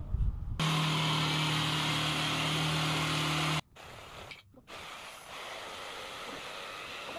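A power tool, likely a saw, running steadily at a constant pitch for about three seconds, starting and stopping abruptly, followed by a quieter steady hiss.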